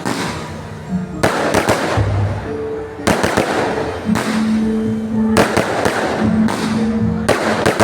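Fireworks going off in repeated salvos of rapid crackling bangs, about four clusters roughly two seconds apart, over background music.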